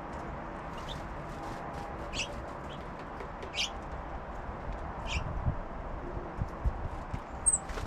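Small songbirds at a backyard feeder giving a few short, high chip calls, with a brief very high note near the end, over a steady background hiss. Soft low knocks come in the second half.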